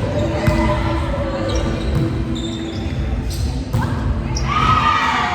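Volleyball game play in a large hall: the ball is hit and thuds several times, with short high squeaks and players' voices over the echoing room noise.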